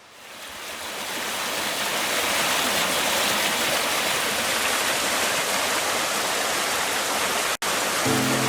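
Rushing mountain-stream water fading in and then running steadily, with a brief cut about seven and a half seconds in. Music starts just before the end.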